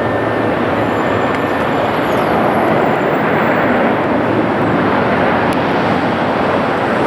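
Jet airliner engines heard from the ground: a loud, steady rushing noise that neither rises nor falls.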